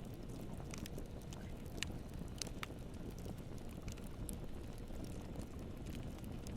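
Campfire burning with a steady low rush of flames and scattered sharp crackles and pops from the wood at irregular intervals.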